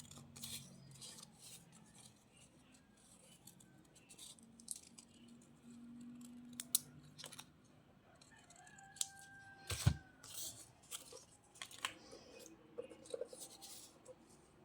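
Scissors snipping through paper, an irregular run of short sharp cuts, with one louder knock about ten seconds in.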